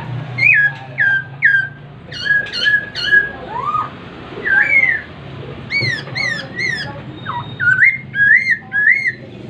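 Chinese hwamei (poksai hongkong) singing: a long run of loud, clear whistled notes, many rising then falling, some repeated two or three times in quick succession.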